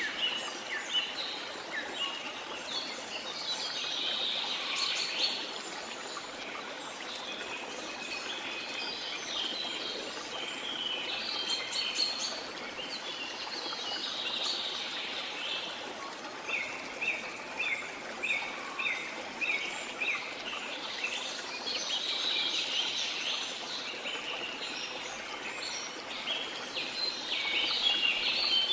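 Several birds chirping and trilling over the steady rush of flowing water from a rainforest stream or waterfall. About halfway through, one bird gives a run of short repeated notes, roughly two a second.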